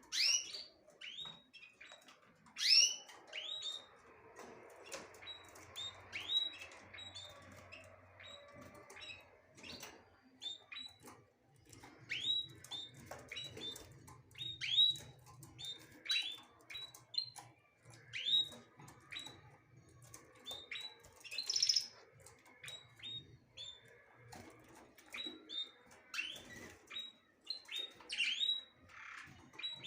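Small birds chirping: many short, sharply falling chirps at irregular intervals throughout, with a few louder calls near the start.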